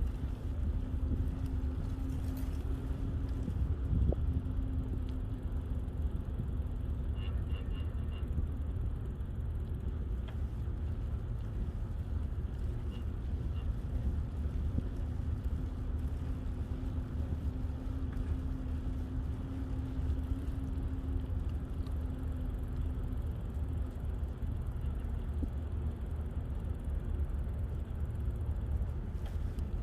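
Steady low rumble of wind buffeting the microphone and tyre noise from riding a bicycle along a paved path, with a faint low hum that fades in and out.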